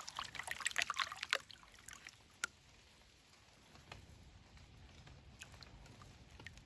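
Water sloshing and pouring as a gold pan of sluice concentrate is worked in creek water, stopping about a second and a half in. A single sharp tap follows, then only a faint steady background.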